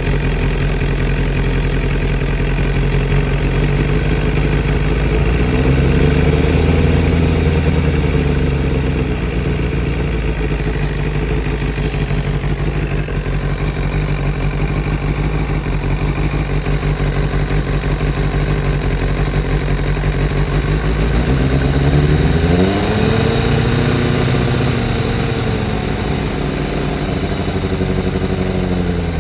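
Engine idling steadily and revved gently twice, the pitch rising, holding for a few seconds and settling back to idle; the owner suspects a vacuum leak somewhere. A few faint high ticks come in two short clusters.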